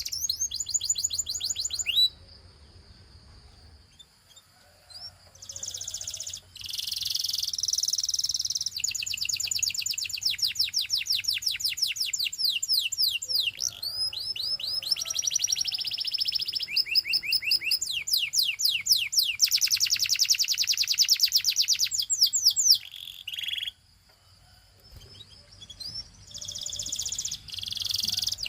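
Canary singing: long runs of fast, rapidly repeated high notes forming trills one after another, with two short pauses, one a couple of seconds in and one about three-quarters of the way through.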